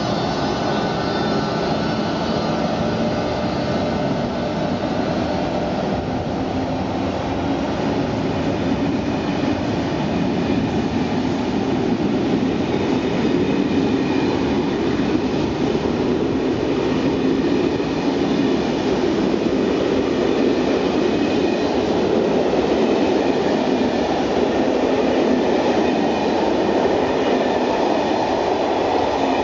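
SNCF BB 26000 electric locomotive passing with a high whine that fades over the first few seconds. Its train of passenger coaches follows, their wheels making a loud, steady rumble on the rails.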